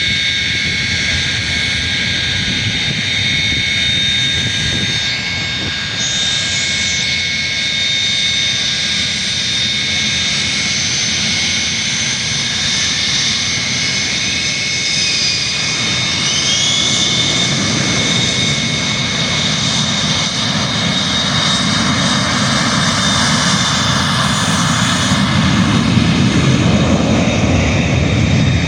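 Boeing jet airliner engines running with a steady high whine over a broad rumble. The whine bends up in pitch briefly about halfway through, and the low rumble grows louder near the end.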